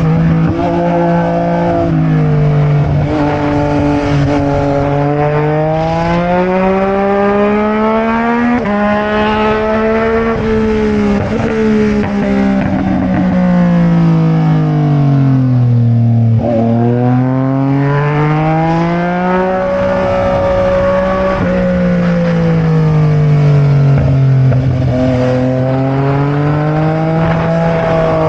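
Sport motorcycle engine heard onboard while riding, its pitch rising and falling smoothly as the throttle is rolled on and off, with a deep drop in revs about halfway through before it climbs again. Wind and road noise run underneath.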